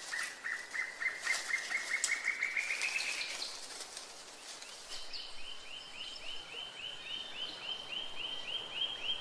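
A bird singing two trills of quickly repeated short notes. The first, at about eight notes a second, climbs slightly in pitch for about three seconds. After a pause, a higher series of about five notes a second follows.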